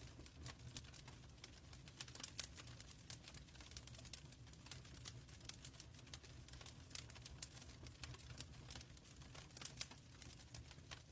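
Wood fire crackling in a fireplace: many small, sharp snaps and pops at irregular intervals over a steady low rumble.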